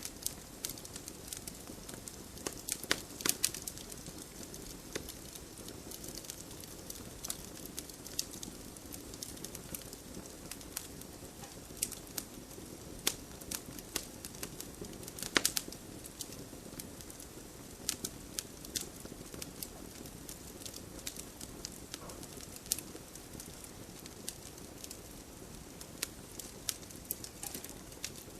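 Wood campfire crackling: irregular sharp pops and snaps over a soft steady hiss of burning, with one louder pop about halfway through.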